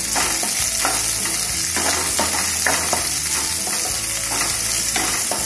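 Sliced onion, garlic and green chillies sizzling in hot oil in a non-stick kadhai, being lightly browned. A wooden spatula stirs them, scraping the pan in short repeated strokes over the steady sizzle.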